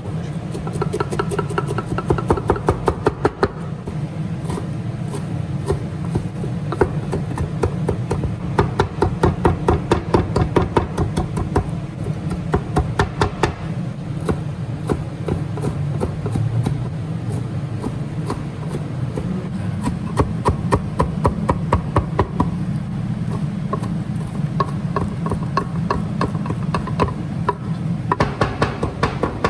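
Runs of rapid, evenly spaced knocks on a cutting board, several a second, stopping and starting every few seconds over a steady low hum.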